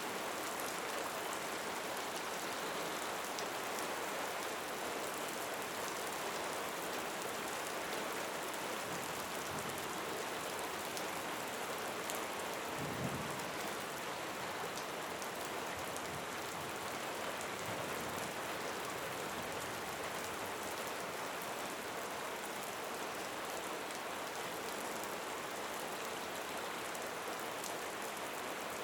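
Steady rain falling, an even hiss of drops, with one brief low thump about halfway through.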